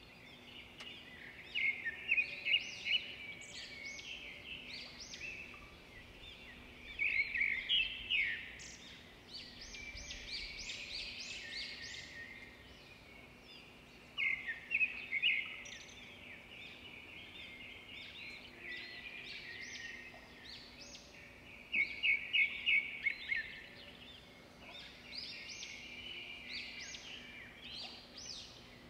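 Birds chirping and singing in rapid runs of short, high notes. The runs come in bursts every few seconds, over a faint steady hum.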